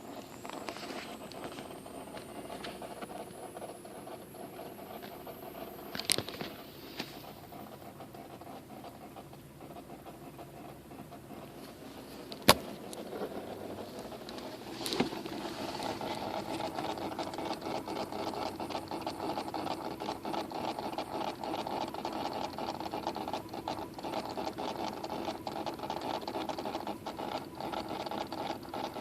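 An odd noise from a 2004 Toyota Sienna minivan: a steady, fast mechanical rattling, like a ratchet, that grows louder about halfway through. Three sharp clicks are heard, the loudest about twelve seconds in.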